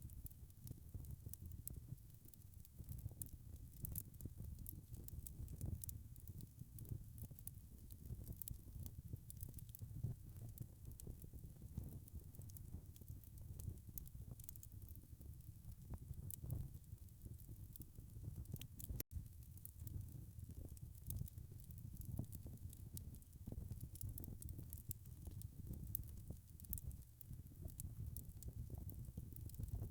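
Wood fire burning in a fireplace: a low rumble of flames with frequent small crackles and pops. The sound cuts out for an instant about two-thirds of the way through.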